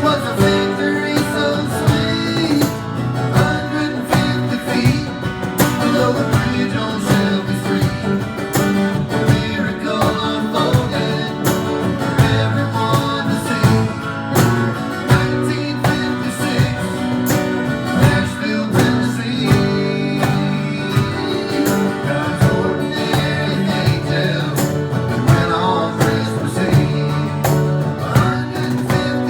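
Live Americana band playing an instrumental passage, guitar to the fore over a steady beat.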